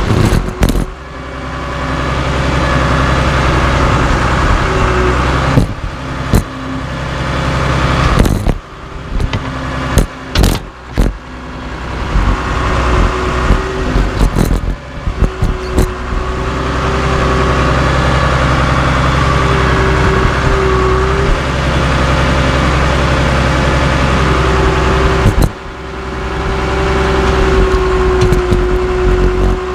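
Cat D3C LGP bulldozer's diesel engine running and working under load, swelling and easing several times, with a wavering whine. Sharp metal clanks and knocks come now and then as the dozer crushes scrap steel wheels.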